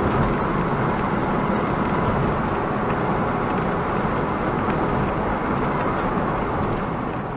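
Steady road and engine noise inside a moving car's cabin, an even rumble with hiss that doesn't change.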